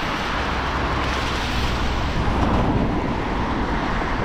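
Steady hiss of heavy rain with traffic on the wet road, swelling slightly in the middle.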